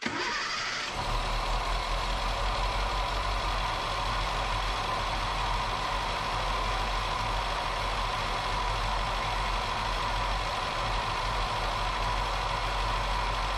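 A 1977 Datsun B210's carbureted four-cylinder engine idling steadily. It is running rich, which the owner suspects comes from the choke staying on.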